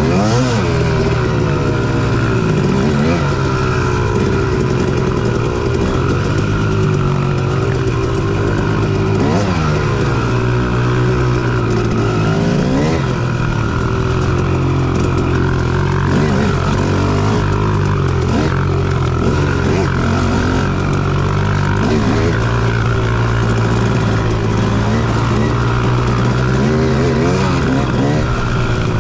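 Dirt bike engine running under way, its revs rising and falling again and again every few seconds as the throttle is worked.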